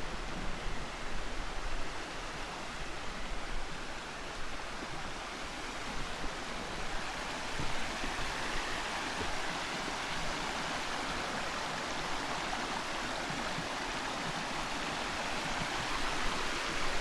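Steady rush of flowing stream water, with uneven low wind rumble on the microphone during the first few seconds.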